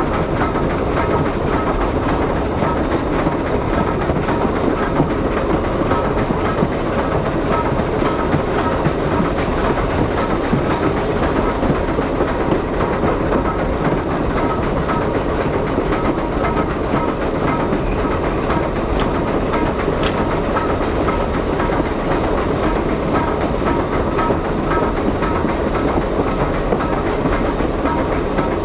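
Train hauled by 2-4-4-2 articulated steam locomotive #7 running along the line, heard from an open observation car: a steady rumble and clatter of wheels on rail.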